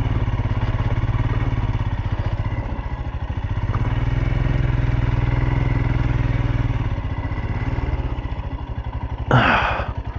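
2023 Royal Enfield Himalayan's single-cylinder engine running on an off-road trail, the throttle opening and easing off. A short loud clatter about nine seconds in.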